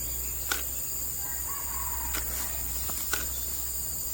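Steady high-pitched insect chorus, with a faint short bird call about a second in and a few sharp clicks.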